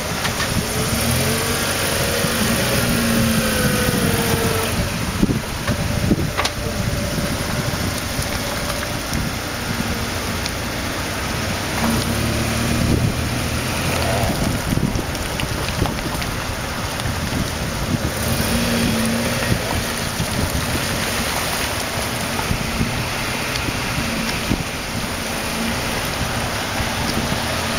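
Daihatsu Fourtrak's engine running at low speed as the 4x4 crawls through deep mud, its note rising and falling as the throttle is worked. There are a few sharp knocks about five and six seconds in.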